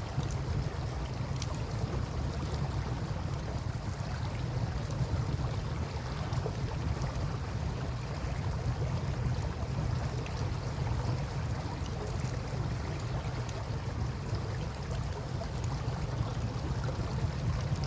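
Campfire burning beside a river: faint scattered crackles over a steady low rumble of moving water and wind.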